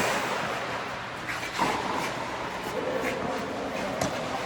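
Tennis ball struck by rackets during a rally on an indoor court: a few sharp hits spaced a couple of seconds apart, over faint voices.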